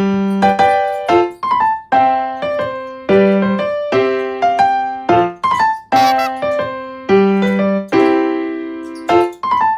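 Piano music, likely electric piano: a light melody of single notes struck about two to three times a second.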